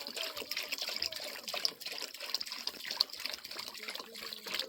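Water trickling and splashing, with many small splashes and drips.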